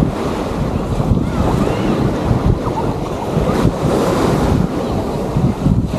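Wind gusting on the microphone over the steady wash of surf on a sandy beach.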